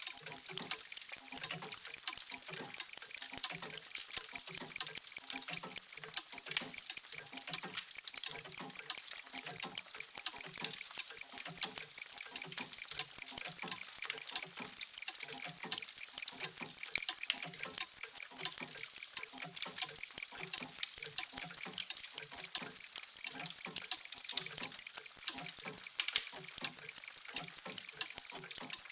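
Many mechanical clocks ticking at once, a dense overlapping stream of sharp ticks with deeper tocks beneath, steady without pause.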